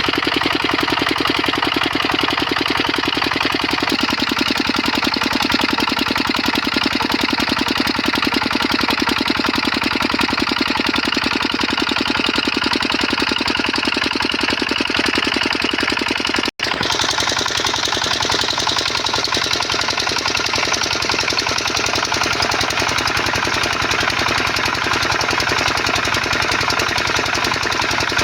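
Stationary diesel engine driving a water pump, running steadily with a rapid, even diesel clatter. The sound breaks off for an instant about two-thirds of the way through, then carries on unchanged.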